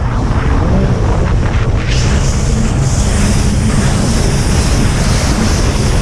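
Racing jet ski engine running under power, mixed with rushing water and wind buffeting the microphone. A bright hiss of spray or wind rises about two seconds in and stays.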